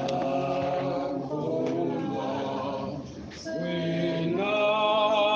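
Congregation singing a hymn unaccompanied, voices holding long notes together.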